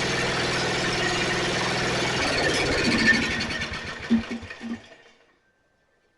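Snapper riding mower's small engine running steadily, then shut off about two seconds in, winding down with a few last chuffs and stopping about five seconds in.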